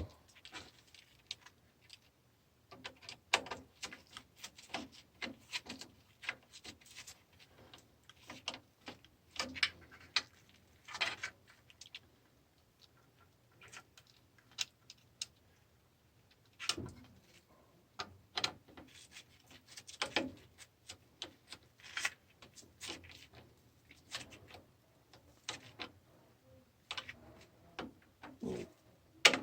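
Irregular small clicks, taps and rattles of hands working on an automatic water feeder's wiring and metal cover, over a faint steady low hum.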